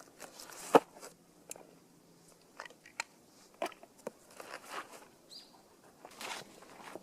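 Irregular crunches and sharp clicks, a few per second at most, with a single short high chirp about five seconds in.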